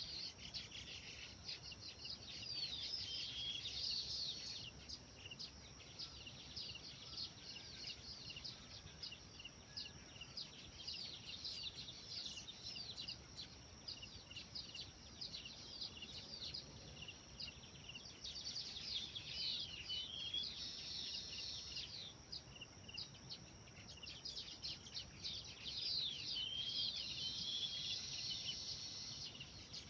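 Songbirds chirping and trilling: rapid streams of short, high, downward-sweeping notes that thicken into busier bursts several times, over a faint low background hum.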